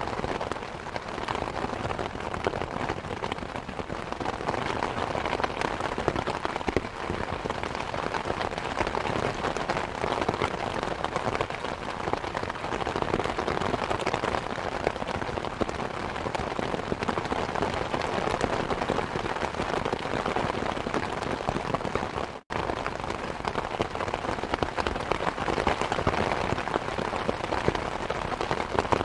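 Steady rain mixed with a crackling wood fire, dense little pops and snaps over the hiss of the rain. For an instant about three-quarters of the way through, the sound drops out.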